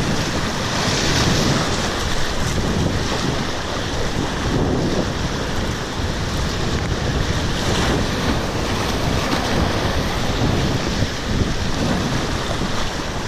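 Rushing river water, with wind buffeting the microphone in an uneven low rumble.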